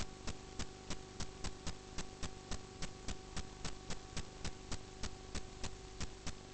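Steady, even ticking, about three ticks a second, over a constant electrical hum.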